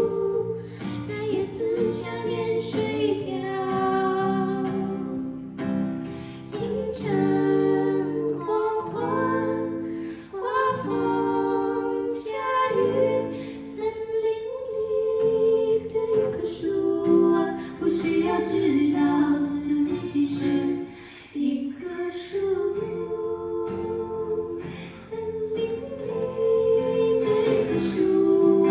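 A folk song performed live: a woman singing a slow melody over plucked acoustic guitar accompaniment.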